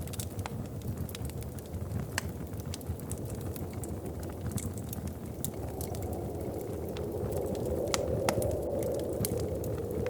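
Wood fire crackling, with frequent sharp pops and snaps over a steady low rumble. About six seconds in, a rushing sound swells up and stays to the end.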